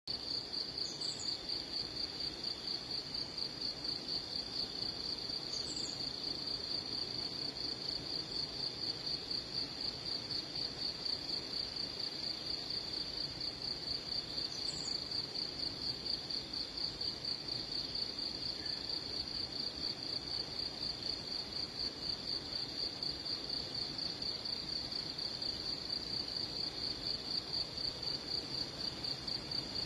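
An insect's steady trill: one high tone pulsing at an even fast rhythm without a break. A few faint, short, higher chirps come in briefly, about a second in, near six seconds and near fifteen seconds.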